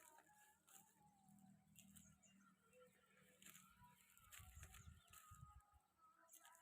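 Faint farm ambience with distant bird calls chirping on and off, and a few low rumbles about four to five seconds in.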